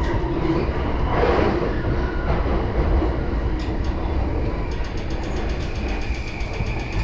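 JR Yamanote Line commuter train running between stations, heard from inside the carriage: a steady low rumble of wheels on rail with a constant whine. A rushing surge comes about a second in, and a quick run of faint clicking from the track starts in the second half.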